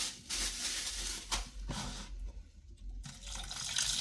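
Electric pressure cooker hissing in uneven bursts, with a break of about a second two seconds in.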